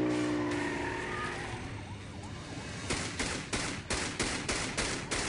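A vehicle engine fading out over the first second, then from about three seconds in a rapid string of gunshots, three to four a second.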